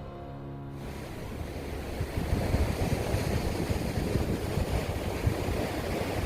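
The last notes of a song die away in the first second, giving way to sea surf washing and wind buffeting the microphone in gusty low rumbles.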